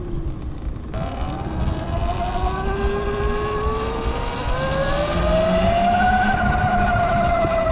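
Electric motor whine of a Segway X160 electric pit bike, climbing in pitch as the bike speeds up and then easing off slightly near the end, over a low rumble.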